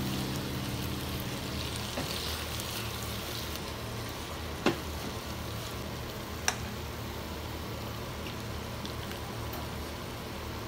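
Cubed tofu and green chilies frying in a pan, a steady sizzle as it is stirred. A utensil clicks sharply against the pan twice, a little under two seconds apart, near the middle.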